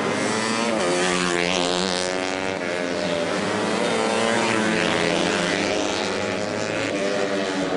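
Racing motorcycle engines revving hard, their pitch repeatedly rising and falling as the bikes accelerate and shift.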